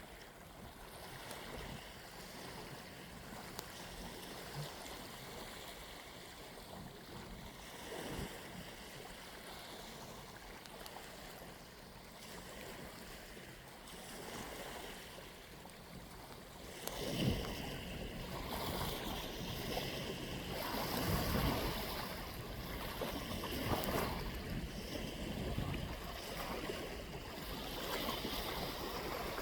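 Seawater lapping and sloshing, growing louder about halfway through, with a few stronger rushes of water.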